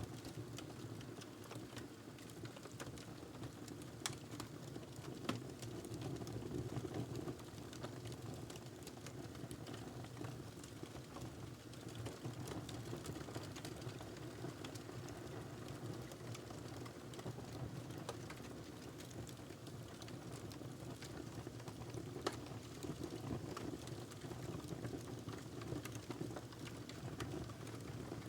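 Wood fire burning in a fireplace: a steady low rumble of flames with scattered crackles and pops, two sharper pops about four seconds in and about two-thirds of the way through.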